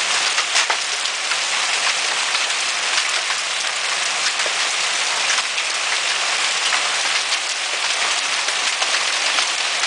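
Hail and heavy rain pelting down: a steady, dense hiss of countless small impacts, with sharper individual ticks of hailstones scattered through it.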